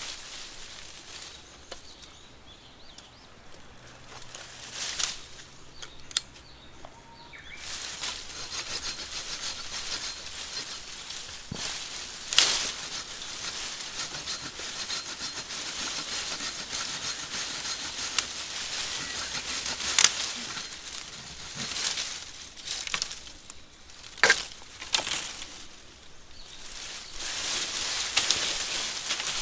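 Rustling through forest brush and leaves, with several sharp cracks spread through it, as of wood or branches being snapped or knocked.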